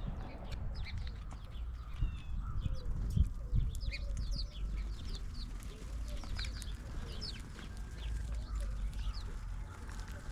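Several small birds chirping: many short, quick notes scattered throughout, over a steady low rumble.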